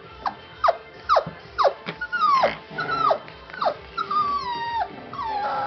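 One-month-old puppy yelping and whining: a quick run of short, sharp yelps that drop in pitch, then from about two seconds in, longer whines that slide downward. Music plays faintly underneath.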